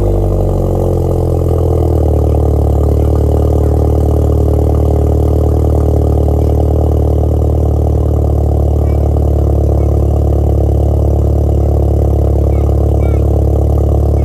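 Engine exhaust just after a start: the idle drops and settles within the first couple of seconds, then runs at a steady idle.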